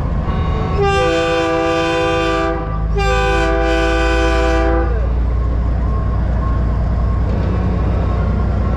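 Multi-tone train horn mounted on a semi truck, sounding two long blasts of about two seconds each with a short break between, over the steady low rumble of a diesel engine.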